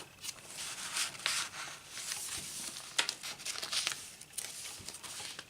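Paper pages and inserts of a handmade journal being handled and turned, rustling and crinkling, with a few short crisp snaps of paper about a second in and again around three seconds in.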